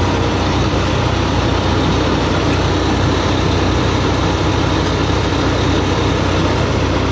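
Tow truck engine running with a steady low drone.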